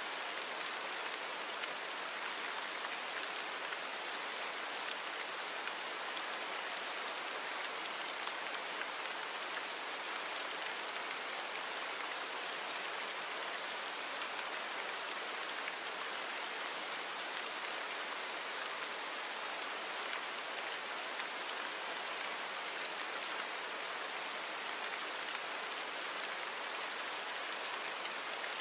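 Steady rain falling, an even hiss of many drops with no single drops standing out and no change in strength.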